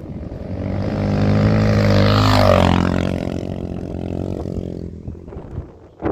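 Honda XR650R single-cylinder dirt bike passing close by. The engine grows louder to a peak about two seconds in, then fades away with its pitch dropping slightly.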